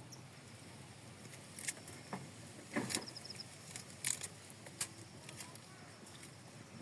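Scattered sharp clicks and knocks, the loudest a quick cluster about three seconds in, followed by a brief high chirp of four short pips.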